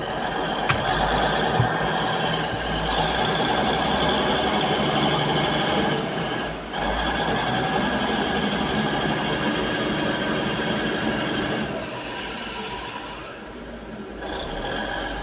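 Heavy diesel engines of a tipper truck and a bulldozer running hard under load as the dozer pushes the stuck truck from behind. The sound dips briefly about halfway, eases off near the end, then picks up again.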